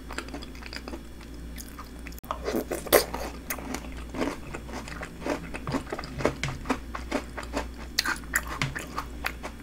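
Close-up mouth sounds of eating snack bingsu, shaved ice with milk and cookie and chocolate toppings. Wet chewing with frequent crisp crunches and clicks sets in about two seconds in.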